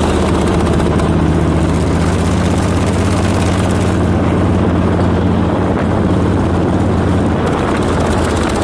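Harley-Davidson trike's V-twin engine running at a steady cruise, with a low, even drone that neither rises nor falls.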